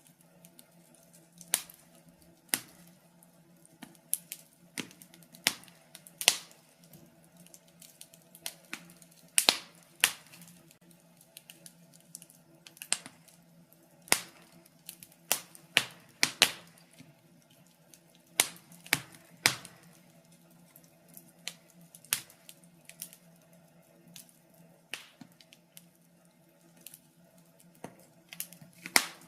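Wood fire crackling in a fireplace: irregular sharp pops and snaps, several a second, some much louder than others, over a faint steady low hum.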